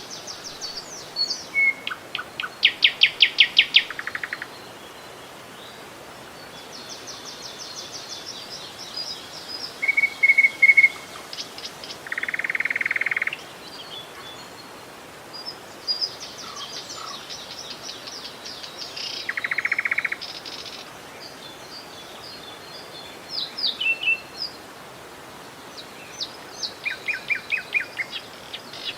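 Several songbirds singing in turn: fast trills, rapid series of repeated high notes and a few short buzzy phrases, over a steady background hiss.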